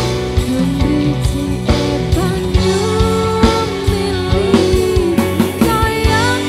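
Live dangdut band music: frequent drum beats and a steady bass under a singer's wavering melody line.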